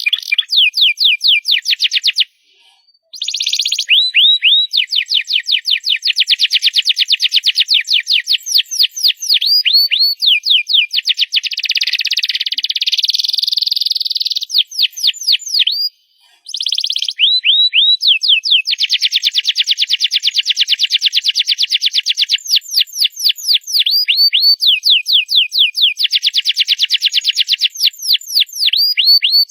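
Domestic canary singing loudly in long phrases of rapidly repeated falling whistled notes and fast buzzy trills. The song breaks off briefly twice, once near the start and once about halfway.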